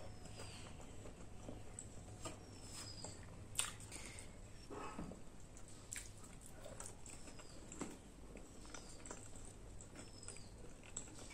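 Close-miked chewing and mouth sounds of a person eating chole and bhature by hand, with scattered small clicks and smacks.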